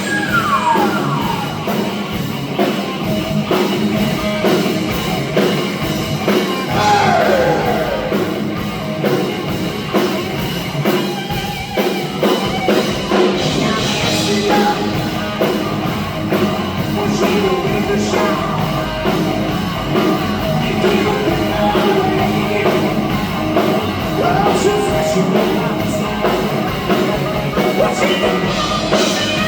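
Live rock band playing loudly with a singer.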